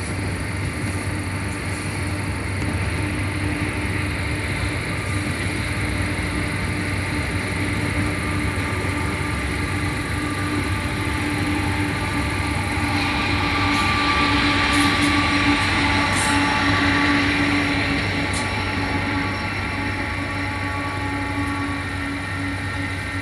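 Freight train rolling past a grade crossing: a steady rumble of wheels on rail with a steady tone over it. It grows louder for several seconds past the middle, with a few sharp clicks, then eases off.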